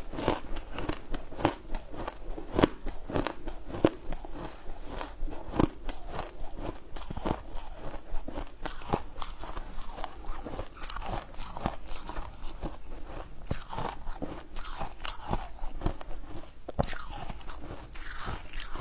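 Close-miked crunching and chewing of a mouthful of crunchy food, a dense run of sharp crunches.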